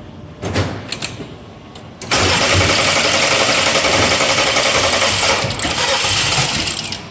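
BMW N20 turbocharged four-cylinder being cranked by its starter for about five seconds from about two seconds in, without catching. The engine won't fire because of air in the fuel lines after the engine swap. A couple of short clicks come before the cranking.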